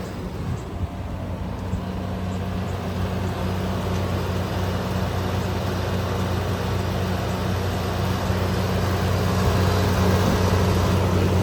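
1983 Whirlpool heat pump running in its defrost cycle: a steady low hum with a rushing air-and-refrigerant noise that slowly grows louder.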